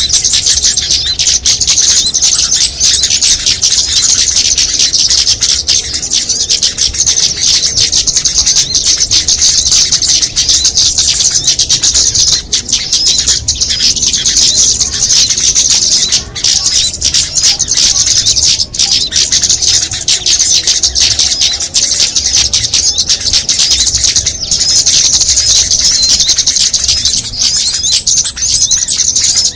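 Dense, continuous chorus of many small songbirds chirping and twittering at once, high-pitched and without a break: a layered bird-lure recording used to draw small birds in.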